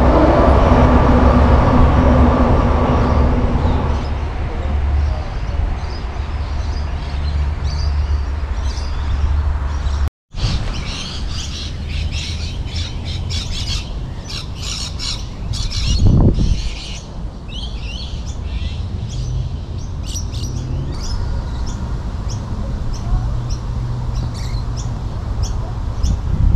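A 4000-class electric passenger train running past and fading away: a low rumble with a steady motor hum that dies down over the first few seconds. After an abrupt cut, birds chirping and squawking, with one brief louder swell about two-thirds of the way through.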